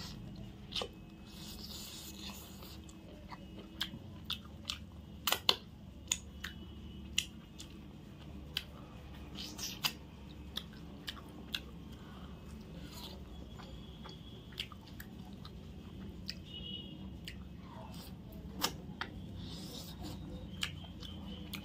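Close-up chewing and biting as chicken meat is eaten by hand off a drumstick bone, with irregular sharp clicks from the mouth and fingers.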